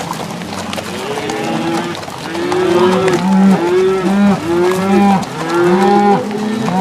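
A herd of cattle mooing and bawling. From about two seconds in, several animals call over one another in long arching calls at different pitches, one after another with hardly a pause.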